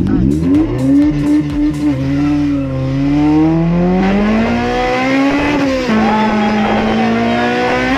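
Race car engine heard from inside the cabin, pulling hard under acceleration. The revs climb steadily for several seconds, drop briefly about six seconds in, then hold high. A run of sharp crackles comes in the first couple of seconds.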